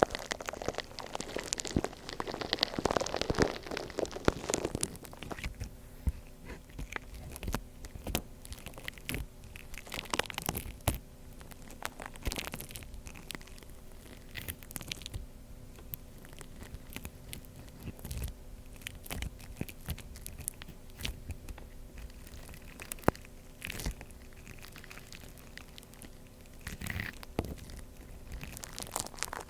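Gritty shaved-ice slime being squeezed and worked by hand: crunchy crackling with scattered sharp clicks and pops, busiest in the first few seconds and again near the end.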